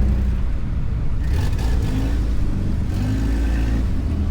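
A motor vehicle's engine running, a steady low rumble with the pitch rising and falling a little.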